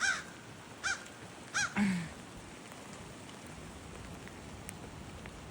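Crow cawing: three short, harsh caws in quick succession within the first two seconds, then only a steady hiss of falling precipitation.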